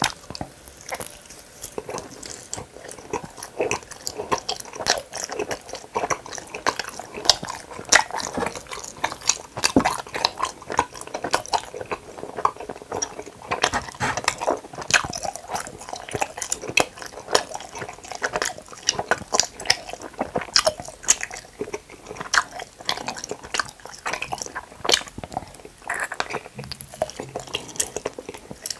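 Close-miked chewing and biting of hamburger-shaped gummy candies: a continuous, irregular run of short sticky mouth clicks, with a bite into a large gummy burger in the second half.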